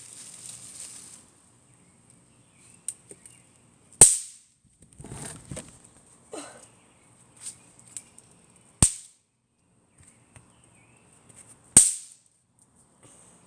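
Small novelty firecrackers going off with sharp cracks: three loud pops about four, nine and twelve seconds in, and a few fainter clicks between them.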